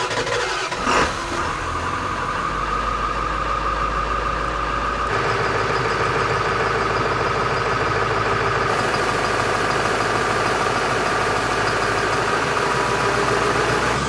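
A vehicle engine idling steadily, just after starting, with a steady whine above the engine note and a short bump about a second in.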